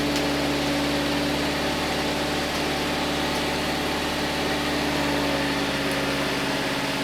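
An engine idling steadily: a constant, even hum with no change in speed.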